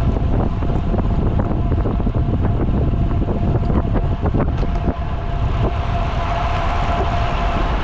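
Wind buffeting the microphone of a moving bicycle rider, a steady loud rush with deep rumble. A faint steady whine grows louder about two-thirds of the way through.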